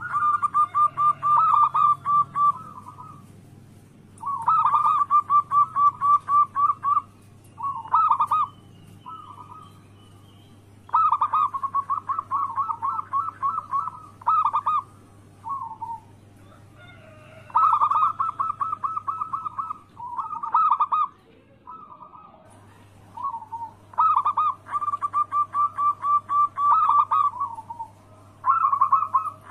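Local perkutut (zebra doves) singing: phrase after phrase of fast, evenly repeated cooing notes, each phrase lasting a few seconds with brief pauses between, over a steady low hum.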